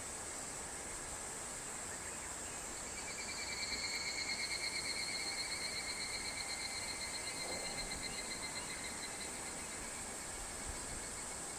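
Higurashi (evening cicada) call: a rapidly pulsed trill that swells about three seconds in and slowly fades away over about six seconds. Behind it is a steady high hiss of insects.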